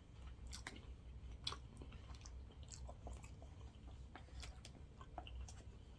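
A person chewing food close to the microphone: soft, irregular wet mouth clicks and smacks over a low, steady hum.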